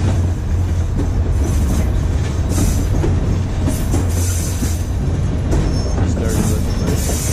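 Narrow-gauge passenger train rolling along the track, heard from aboard: a steady low rumble with irregular hissing bursts and a brief high wheel squeal a little before six seconds in.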